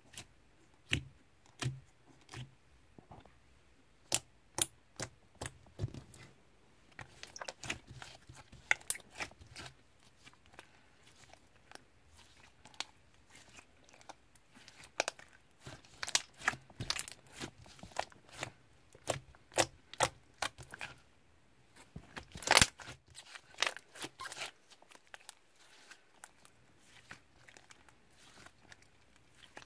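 Slime being squeezed and poked by hand, giving off irregular sharp crackling pops and clicks, the loudest a little over two-thirds of the way through.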